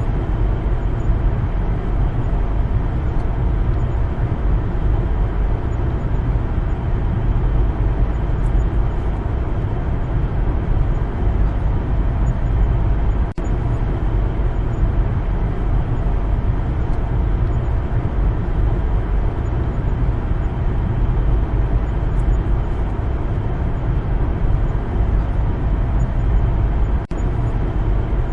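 Car driving on a road: a steady, low engine and tyre rumble with no change in pace, cut off for an instant about halfway through and again near the end.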